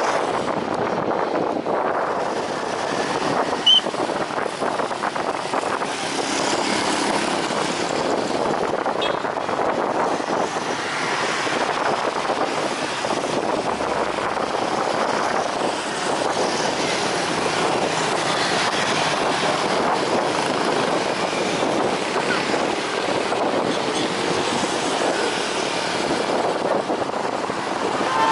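Steady jet engine noise from an airliner at the airport, mixed with wind on the microphone. A single short high chirp comes about four seconds in.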